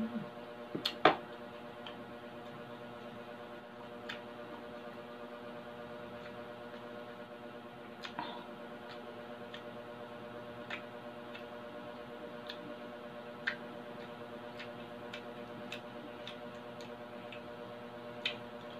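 Crispy fried pork belly crackling crunching in the mouth as it is bitten and chewed: sharp, crisp crunches every few seconds, the loudest about a second in. A steady background hum runs underneath.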